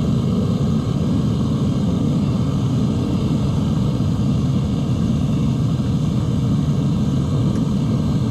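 Devil Forge propane melting furnace running, its burner making a steady, low-pitched rushing noise while a charge of copper melts in the crucible.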